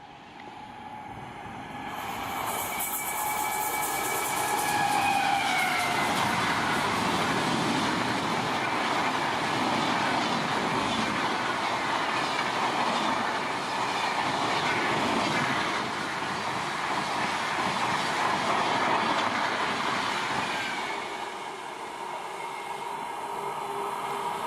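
Electric-hauled express train passing at speed. It grows louder over the first few seconds, and a steady tone from the locomotive drops in pitch as it goes by about five seconds in. Then the coaches rush past on the rails for about fifteen seconds before the sound eases off.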